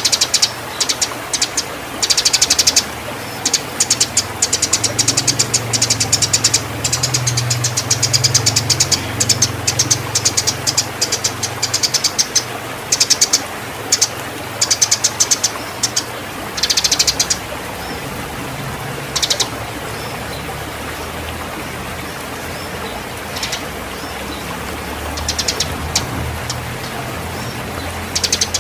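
Eurasian tree sparrows chattering in rapid bursts of chirps, the agitated calls of sparrows fighting. The bursts come thick and fast for about the first seventeen seconds, then only now and then, over a low steady hum.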